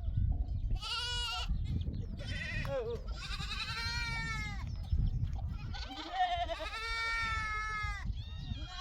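A flock of sheep bleating: about five long, wavering calls, some overlapping, one after another, over a low rumble.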